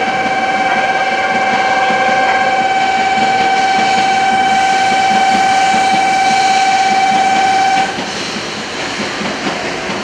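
300 series Shinkansen pulling into the platform: running noise with a steady high whine over it. The whine cuts off about eight seconds in as the train comes to a stop, and the overall sound drops away.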